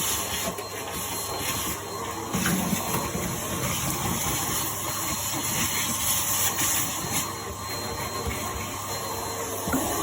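Numatic Henry vacuum cleaner running steadily, air hissing through its crevice tool, the hiss swelling and dipping, with a few brief clicks.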